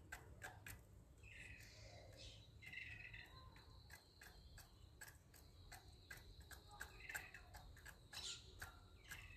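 Faint, quick irregular ticks of peafowl pecking at grain, with a few short bird chirps and a thin, steady high insect tone.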